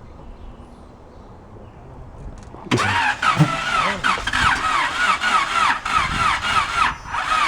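A rebuilt Honda VTEC engine being cranked over by its starter motor: about three seconds in the starter engages and the engine turns over in an even rhythm of roughly two strokes a second without catching.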